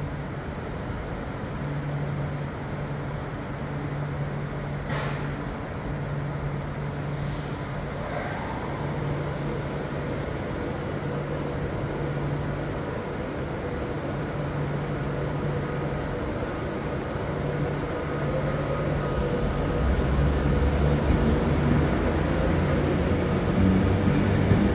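A train running through a station, a steady rumble with a low hum that grows louder over the last few seconds as it comes closer.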